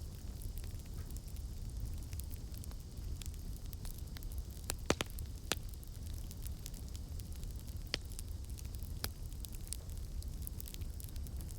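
Campfire crackling: scattered sharp pops and snaps over a steady low rumble, with a few louder pops about five seconds in and another near eight seconds.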